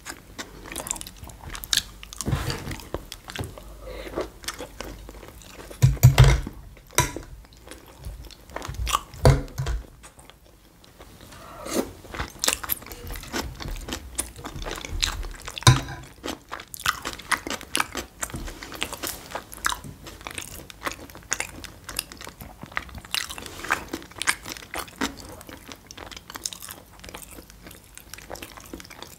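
A person chewing and crunching food close to the microphone: many short wet mouth clicks and crunches, with a few louder dull thumps about six, nine and sixteen seconds in.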